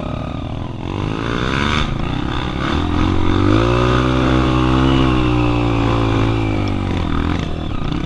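Single-cylinder four-stroke trail motorcycle engine revving up under load on a climb, rising in pitch, holding high revs for a few seconds, then easing off near the end.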